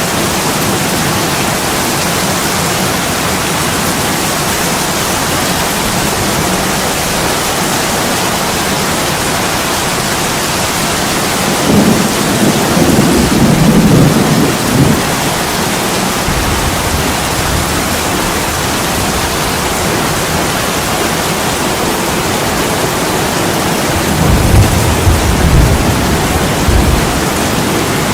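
Steady heavy rain pouring on a window pane, with two low rumbles swelling up over it, one about twelve seconds in lasting a few seconds and another near the end.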